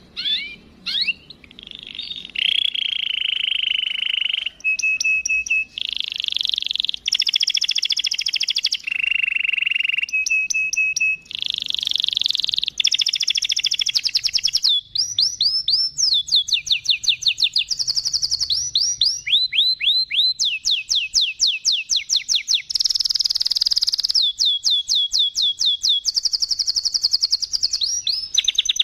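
Domestic canary singing a long, continuous song of rapid trills, moving from phrase to phrase, with fast runs of downward-sweeping whistled notes in the second half.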